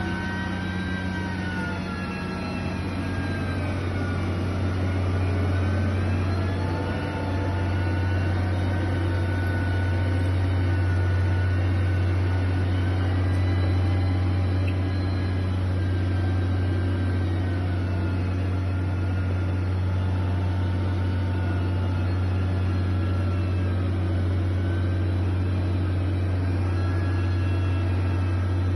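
A heavy construction machine's engine running steadily: a constant low drone with a higher whine that rises and falls slowly in pitch.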